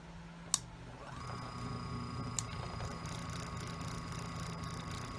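Mytek electric fan switched on again with a click, its motor humming, then spinning up about a second in with a rising whine that settles into a steady running whir. It now starts and runs properly on a replacement run capacitor, showing the old capacitor was the fault.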